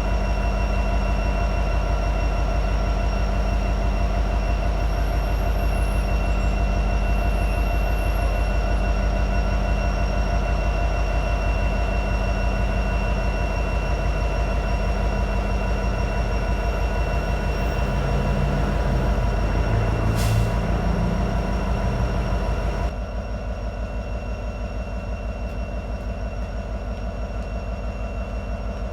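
Diesel freight locomotive running steadily: a deep, rapidly pulsing engine rumble with steady high tones over it. About 23 s in the sound drops abruptly to a quieter rumble.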